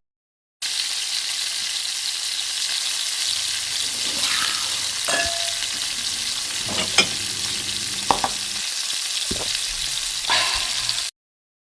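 Steady crackling hiss with scattered sharp pops, starting and stopping abruptly.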